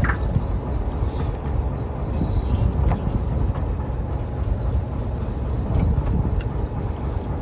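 Fishing trawler's engine running steadily with a low rumble, with a couple of faint knocks.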